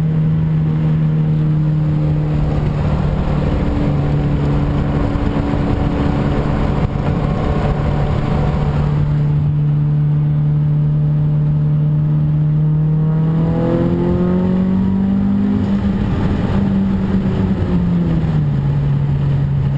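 Mazdaspeed 3's turbocharged 2.3-litre four-cylinder running through an aftermarket CPE Nexus exhaust and Full Race exhaust manifold. The exhaust note holds a steady pitch for most of the time, then rises as the engine revs up about two thirds of the way in, holds, and drops back near the end.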